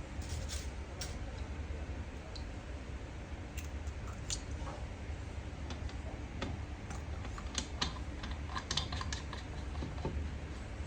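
Scattered light clicks and taps of small parts and tools being handled in diesel fuel pump repair work, growing busier in the second half, over a low steady hum.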